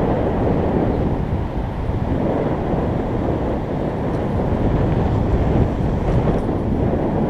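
Wind buffeting the microphone: a steady, loud low rush with no distinct events.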